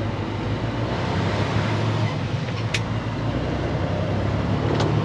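Diesel engine of a semi truck running steadily, with road noise. Two short, sharp clicks come about three seconds in and again near the end.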